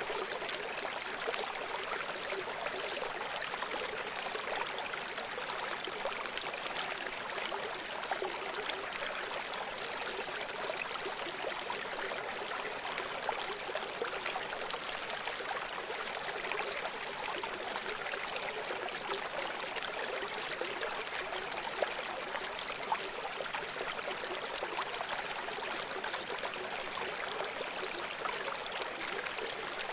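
Running stream: a steady rush and babble of water flowing over stones, with small splashes and gurgles.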